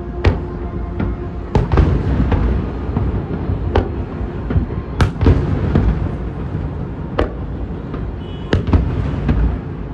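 Aerial fireworks bursting: a run of irregular sharp bangs, about a dozen, over a continuous low rumble of further explosions, the loudest bang about halfway through.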